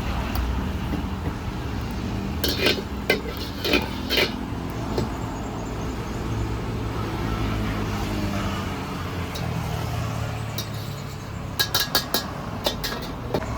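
Metal cooking utensils clinking against pans and dishes in two short clusters of sharp clinks, over a steady low hum.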